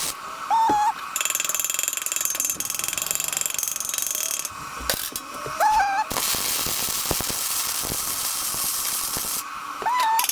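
MIG welder arc crackling and hissing in three runs of a few seconds each. Each run is started by a brief rising whine just before the arc catches.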